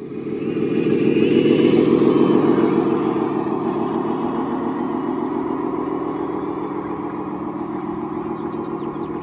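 An RC construction machine running with a steady mechanical drone. It swells over the first second or two, then settles to an even level.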